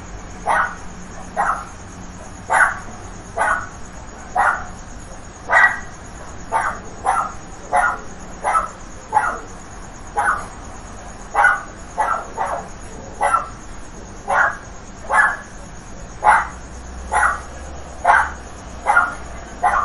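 A dog barking over and over: short, sharp barks about one to two a second, now and then in quick pairs.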